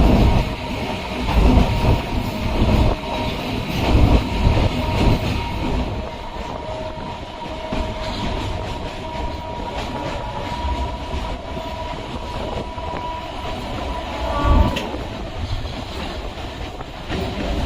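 Electric suburban train running along the track, its wheels clattering over the rail joints, with a steady high whine. The clatter is heavier in the first few seconds, and there is a louder bump near the end.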